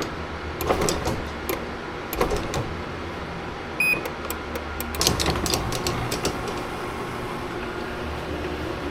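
Chamberlain garage door opener running as the door travels, a steady motor hum with rattles and clicks from the door and rail, and one short high beep about four seconds in.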